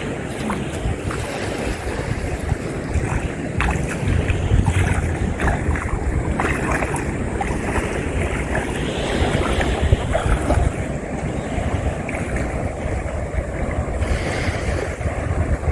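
Wind buffeting the microphone over moving water and small waves, with scattered short splashes or knocks.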